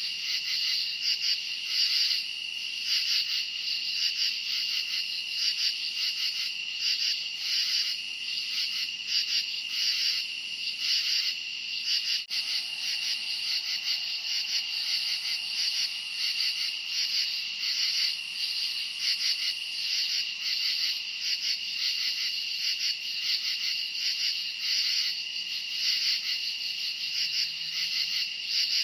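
A chorus of crickets chirping: a steady high trill with a pulsing layer of chirps over it, unbroken except for one brief dip about twelve seconds in.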